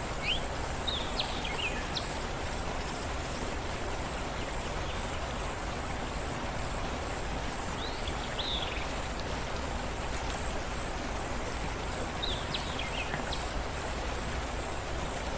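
A steady rush of moving water, with short groups of quick falling bird chirps near the start, about eight seconds in, and again about twelve seconds in.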